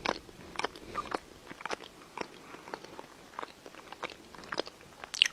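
Crunchy chewing: irregular sharp crunches, a few a second, with a louder crunch near the end, as of an animal biting and chewing hard food.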